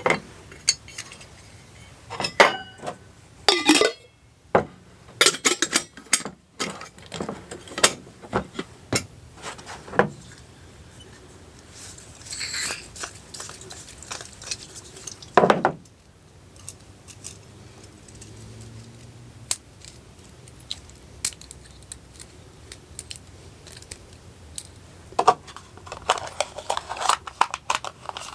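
Small metal items, such as cookware or utensils, clinking and knocking as they are handled. The clinks come in clusters, with a quieter stretch in the middle.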